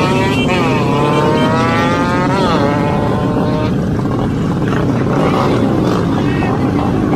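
Motorbike engines revving hard. One rider's engine note climbs steadily for about two seconds, peaks and drops off, then more bikes carry on in a continuous loud din.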